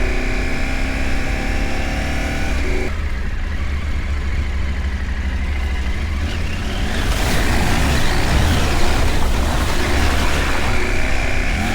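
Parallel-twin adventure motorcycle riding off-road: the engine runs with a clear, steady note for about three seconds, then it drops away abruptly to a low rumble. In the second half a broad rushing noise rises, and the engine note comes back near the end.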